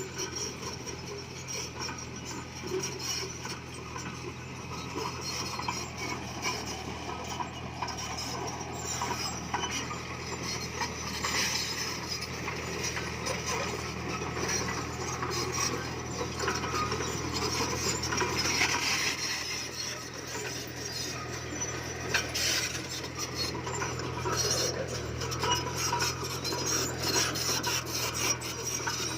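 Komatsu D20P bulldozer's diesel engine running steadily under a continuous scraping, rattling grind of stone and steel tracks as it pushes rock, with scattered sharp clinks.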